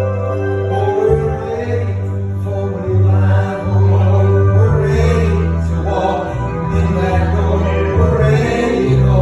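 Gospel praise team singing with organ accompaniment, over held bass notes that change every second or so.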